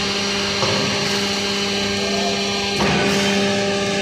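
Hydraulic power pack of a scrap baling press running under load: a steady, many-pitched pump and motor whine over mechanical noise, with a brief knock about three seconds in.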